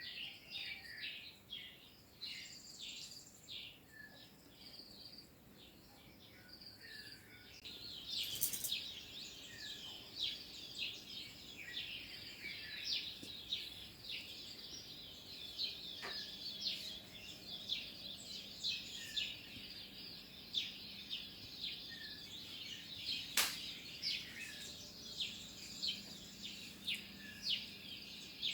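Many small birds chirping together, a dense, continuous stream of quick high chirps. A sharp click sounds about a third of the way in and another, louder one about three-quarters of the way through.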